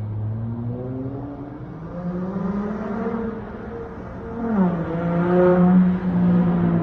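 Dodge Charger SXT's V6 exhaust through a Flowmaster Outlaw straight-through muffler, with the car under way: the pitch rises and falls with the throttle, then the note drops and gets louder about halfway through as it pulls harder.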